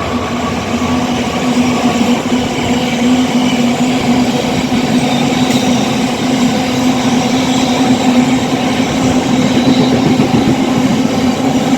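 A Class 66 diesel-electric freight locomotive and its train running through the station: a steady, loud rumble with one steady low hum.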